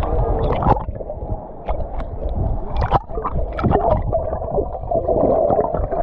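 Sea water sloshing and gurgling around a waterproof camera held at the surface and dipped under, heard muffled, with many sharp little splashes and ticks against the camera.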